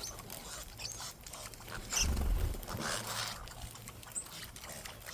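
Small birds at a backyard feeder: scattered short high chirps and scuffling, with a loud low thump about two seconds in.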